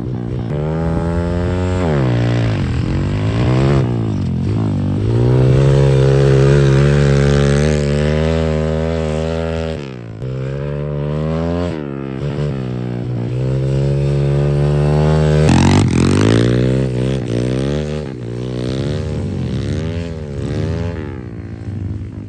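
Pit bike engines on a dirt track, revving up and falling back again and again as the bikes accelerate down the straights and ease off into the turns, louder as a bike passes close.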